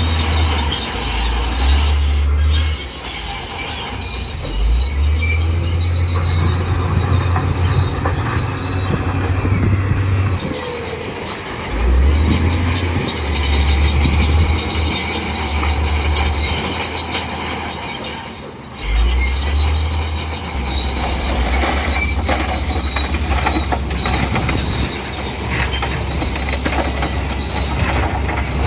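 Crawler bulldozer working: the diesel engine runs under load, its deep rumble swelling and easing several times, while the steel tracks squeal and clank.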